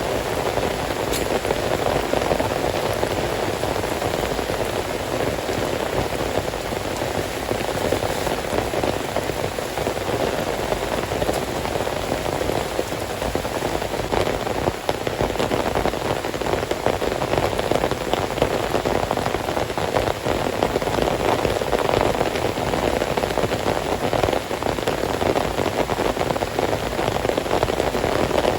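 Heavy rain falling steadily, a dense patter of drops hitting a surface without let-up.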